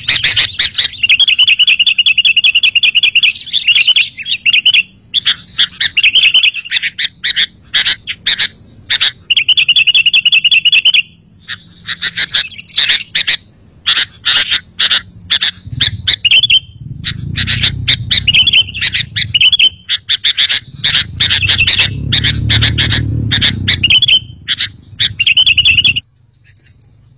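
Sooty-headed bulbuls chirping and singing excitedly in rapid trills and sharp, quick notes, with a low rumble underneath twice in the second half. The birdsong breaks off abruptly near the end.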